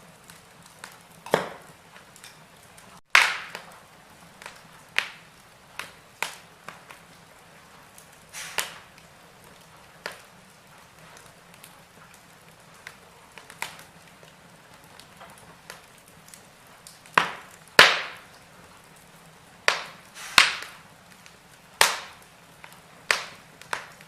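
Wood fire crackling in a fireplace: irregular sharp pops and snaps, a few loud ones, over a faint steady hiss of burning.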